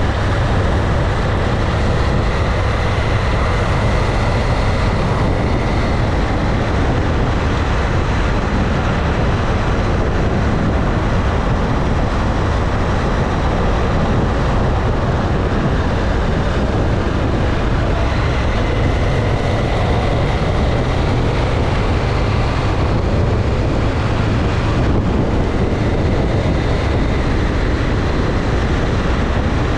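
Motorcycle on the move at a steady pace: a constant rush of wind and road noise with the engine running underneath.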